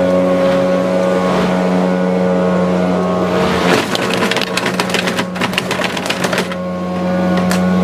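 Petrol lawnmower engine running steadily. From about four to six and a half seconds in, a rapid clatter of toy pieces being struck by the blade.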